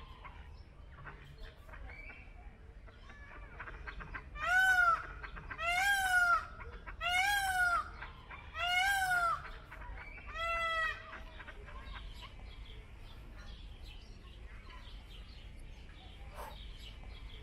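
Indian peafowl (peacock) giving a series of five loud calls about a second and a half apart, each rising then falling in pitch.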